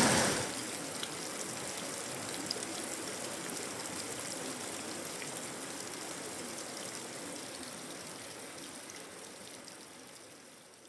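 Tropical rain falling on a tin roof and leaves, with scattered drips. It drops sharply in level in the first half second, then fades out slowly.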